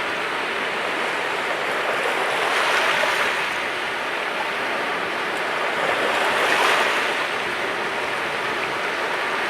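Mediterranean sea waves washing onto the shore: a steady rush of surf that swells twice, about three seconds in and again near seven seconds, as waves break.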